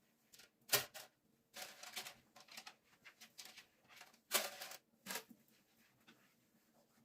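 Household objects being handled: a series of short knocks, clatters and rustles, loudest about a second in and again past the four-second mark.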